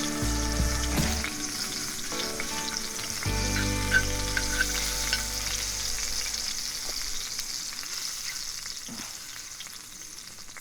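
Meat and vegetables sizzling in a skillet over a campfire, a steady hiss with light crackles that slowly grows quieter. Soft sustained music notes sound over it in the first half, then fade out.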